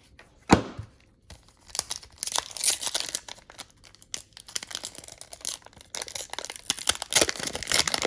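Trading-card pack wrapper being torn open and crinkled, in irregular crackly bursts. A single sharp snap about half a second in is the loudest moment.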